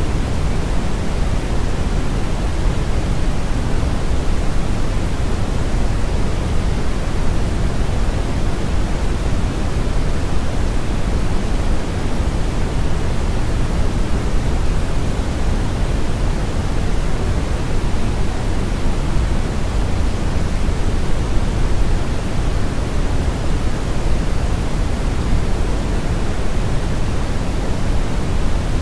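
Brown noise: a steady, unchanging hiss, heaviest in the low rumble and falling off toward the highs, with no pattern or rhythm.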